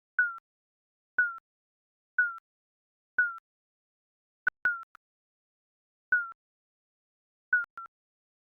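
Digital countdown-timer beeps: short high electronic beeps, each dipping slightly in pitch, about one a second at first, then less evenly, with a few coming in quick pairs.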